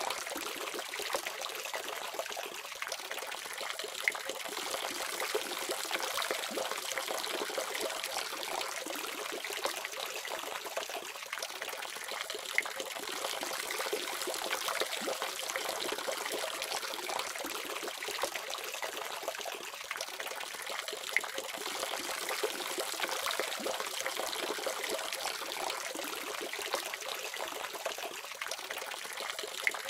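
Water running steadily from a faucet, a continuous trickling splash with small irregular drips and spatters in it.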